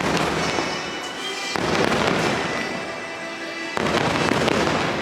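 Fireworks going off, with a loud burst about one and a half seconds in and another near four seconds in, each trailing into crackling, over the fireworks show's music soundtrack.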